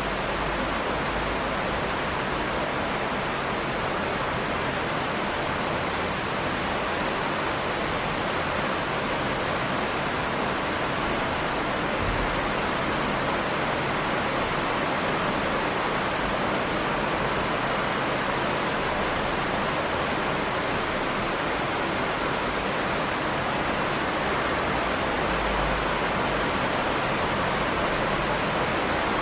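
Steady heavy rain, a dense even hiss without separate drops standing out.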